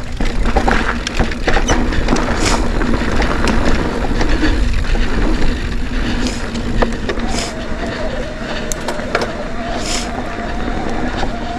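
Mountain bike ridden along a dirt trail: wind buffeting the microphone, tyres rolling over dirt and the bike rattling and knocking over bumps. A steady thin whine comes in about seven seconds in.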